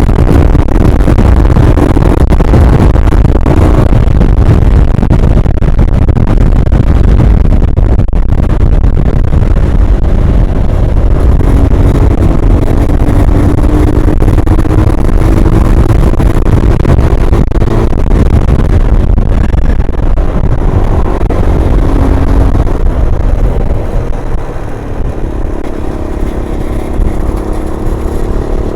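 MGB ATX 125cc adventure motorcycle engine running under way while being ridden, under a heavy, steady low rush of wind noise. The engine note climbs gradually in the middle as it picks up speed, and everything eases off a little near the end.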